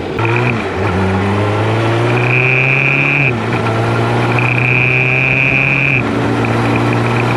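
Suzuki Hayabusa GSX1300R inline-four engine running at fairly steady revs while riding. Over it, a high buzzing rattle comes and goes, louder twice: the key vibrating and dancing on the top bridge.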